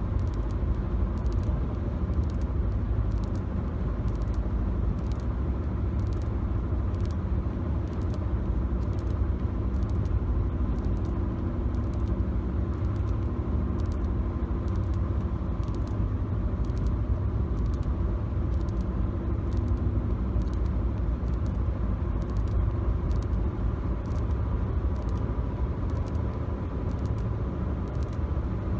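Steady low road-and-engine rumble inside a moving car's cabin, recorded on a phone. Frequent faint sharp clicks run through it.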